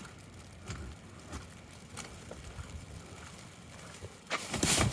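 Faint scattered knocks and rustles, then about four seconds in a loud burst of rustling noise as heavy wet snow is knocked off an umbrella.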